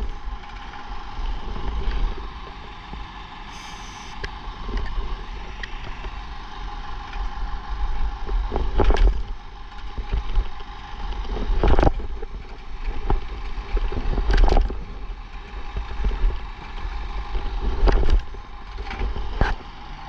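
Yamaha SR500 single-cylinder engine being kicked over again and again without catching, a sharp kick every few seconds over a steady low rumble. The engine is flooded.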